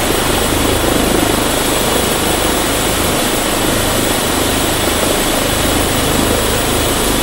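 A helicopter running close by, heard through a camera microphone: loud, steady engine and rotor noise with a thin, high steady whine over it.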